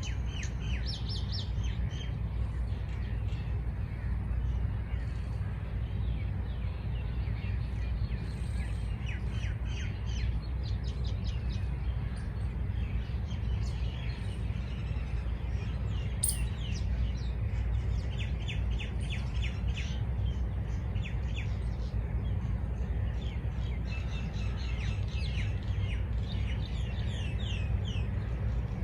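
Small birds chirping in quick runs of short, high, falling notes, several calling at once, over a steady low rumble.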